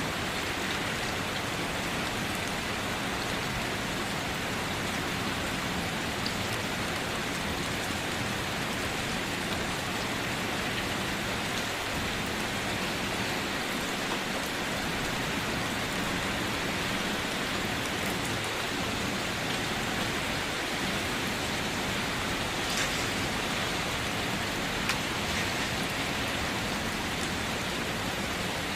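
Steady rainfall, an even hiss of rain with now and then a sharper drop.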